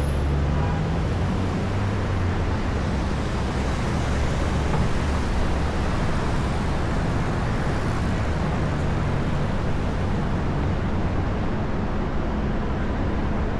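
Downtown street traffic: a steady wash of passing cars and buses. A low engine drone swells near the start and again about eight seconds in.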